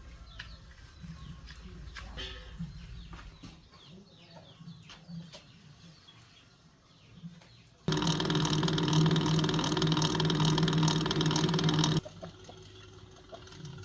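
Faint chirps and clucks of fowl, then about eight seconds in a loud, steady machine hum starts abruptly, runs for about four seconds and cuts off suddenly.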